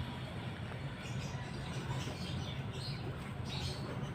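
Faint short bird chirps now and then over a steady low hum.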